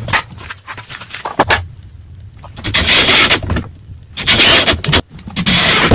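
A few light knocks, then three scraping bursts, each lasting about a second, from work on a wooden door's hinge.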